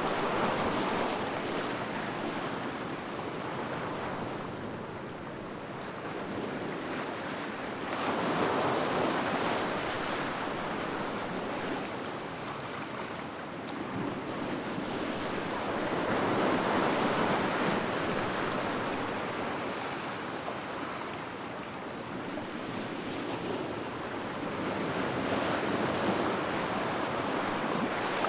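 Sea waves breaking on a shore, each wave swelling and washing out in slow, regular surges about every eight or nine seconds, over a constant wash of surf.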